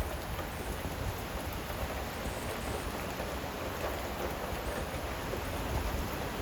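Steady rain falling in a thunderstorm, with a low rumble of wind on the microphone.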